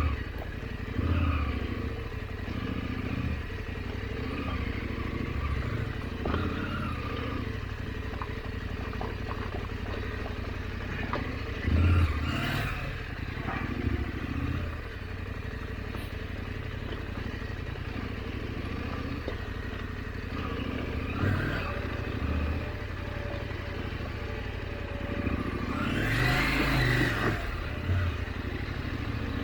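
KTM 890 Adventure's parallel-twin engine running at low trail speed, with short throttle blips every few seconds. A louder burst of noise comes near the end.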